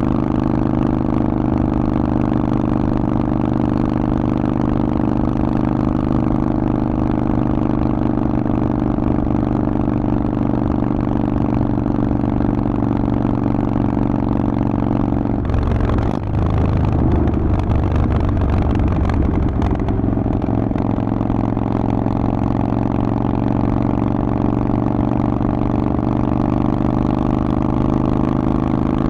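Harley-Davidson Forty-Eight's 1200 cc V-twin running through a Vance & Hines exhaust at a steady cruise. About halfway through the sound dips briefly, then the engine pulls harder and rougher for a few seconds before settling back to steady running.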